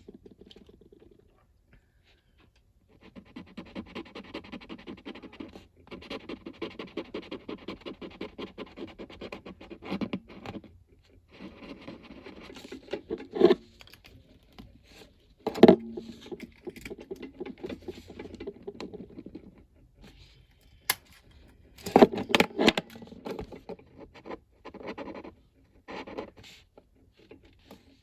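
Colouring in on paper: a drawing tool scratching in rapid back-and-forth strokes, about four or five a second, in several spells, with a few sharp taps or clicks in between.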